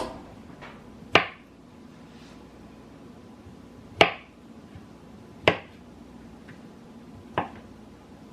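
A handful of sharp knocks, irregularly spaced a second or more apart, each with a short ring.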